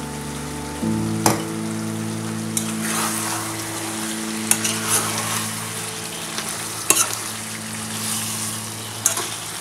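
Chicken and potato pieces sizzling in a non-stick pot with freshly added vegetable oil, while a metal ladle stirs and scrapes against the pot several times. A steady low drone of held tones runs underneath and shifts in pitch about a second in.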